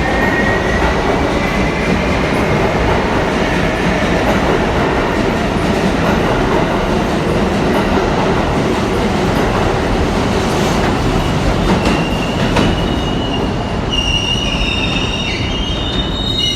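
New York City subway train running loudly along the track. Several high wheel squeals join in about three-quarters of the way through.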